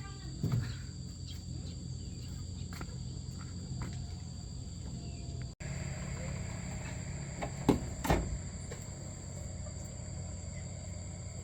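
Steady high insect buzzing over a low background hum, with a few short knocks: one about half a second in and two close together about eight seconds in.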